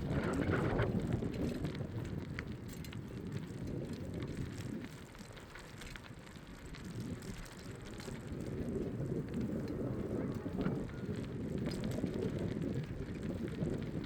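Wind rumbling on the microphone of a moving bicycle, with a light crackle of tyres rolling along the path. The wind dies down a few seconds in and picks up again in the second half.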